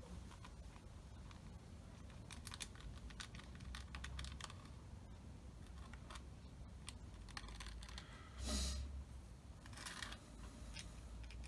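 Faint, scattered light clicks and taps of small parts being handled on a workbench. There is a short hiss about eight and a half seconds in and a weaker one near ten seconds.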